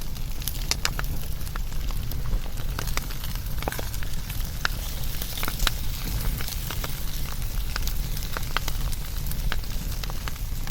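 Wood fire burning, with frequent, irregular sharp crackles and pops over a steady low rumble.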